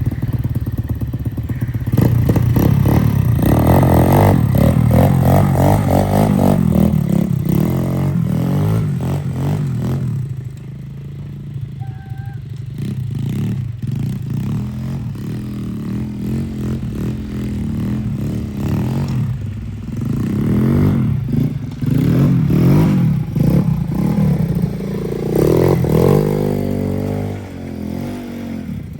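Dirt bike being ridden in snow, its motor repeatedly rising and falling in pitch as the throttle opens and closes. It gets louder about two seconds in and eases off for a few seconds in the middle.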